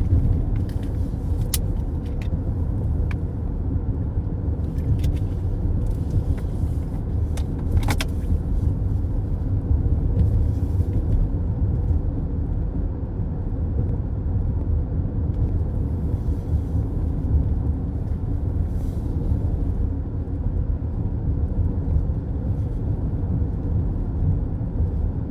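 Car at highway speed, heard from inside the cabin: a steady low rumble of tyres on the road. A few faint sharp ticks come in the first eight seconds.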